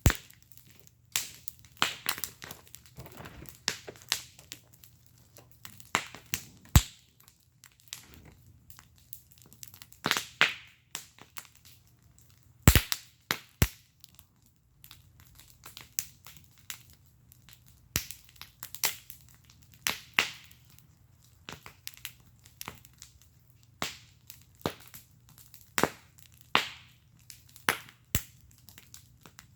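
Wood fire burning in a fire pit, crackling with irregular sharp pops, a few of them loud, and a couple of brief hissing spurts.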